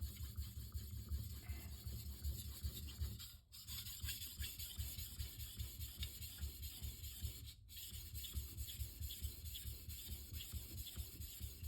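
Steel knife blade stroked rapidly back and forth across a Shapton Rockstar 1000-grit whetstone in even, rhythmic rasping passes, with two short breaks. The coarse stone is biting into the steel and raising metal.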